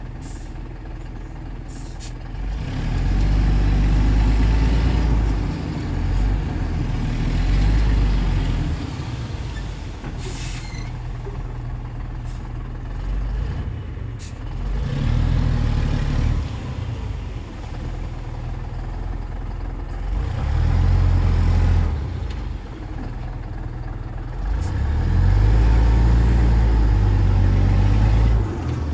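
Shantui DH17C2 bulldozer's diesel engine working, swelling loud and deep five times as it takes load pushing soil and dropping back between pushes. Brief sharp hissy clicks come now and then.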